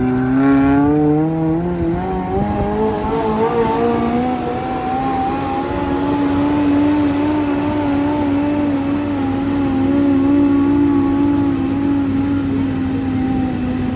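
Kawasaki KZ1000 inline-four motorcycle engine in a pulling tractor, running flat out under load during a full pull. It revs up over the first second or two, then holds high revs with a slight waver in pitch.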